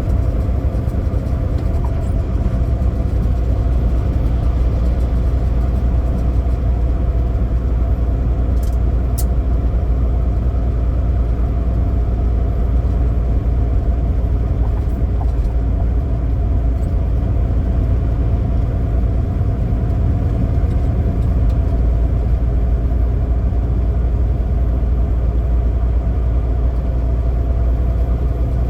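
Semi truck's diesel engine running steadily with a deep, continuous rumble.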